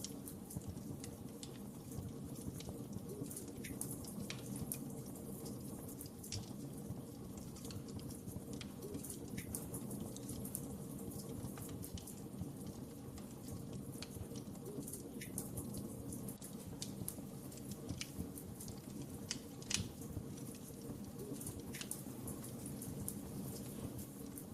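Wood fire in a fireplace crackling, with scattered sharp pops over a steady low rumble of flames; one louder snap comes a few seconds before the end.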